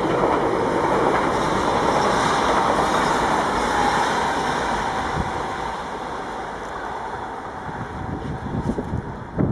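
A train running past on the tracks: a steady rush of rail noise with a faint whine that dips slightly in pitch about four seconds in, fading through the second half. Wind buffets the microphone near the end.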